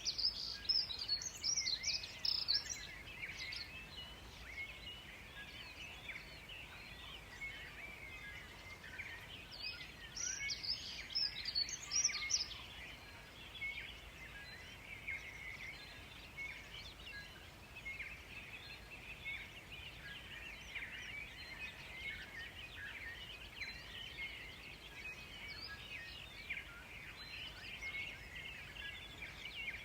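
Forest birdsong: a continuous chorus of small chirps, with two louder bursts of high twittering song, one at the start and one about ten seconds in.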